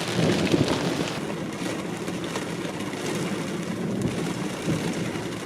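Thunderstorm thunder rumbling over steady rain and wind noise. The rumble is loudest and most crackling in the first second, then settles into a steady rolling rumble.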